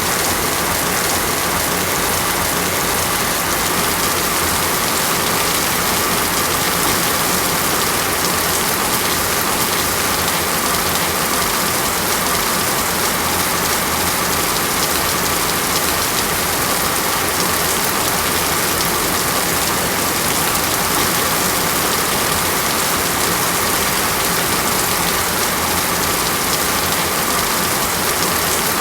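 Steady, even rain falling on a surface, a dense constant patter with no thunder or other events.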